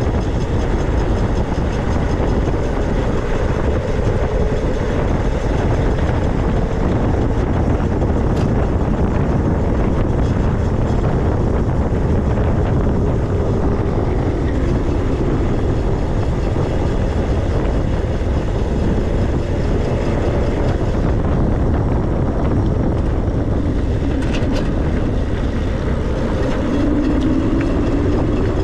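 Steady rush of wind on the microphone and rolling noise from riding an e-bike, with a faint whine that rises near the end.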